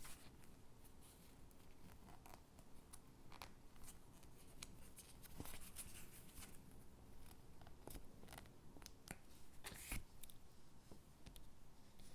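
Quiet, close handling of stickers and paper gingerbread cutouts: soft peeling and pressing rustles with scattered light clicks, and a sharper tap about ten seconds in.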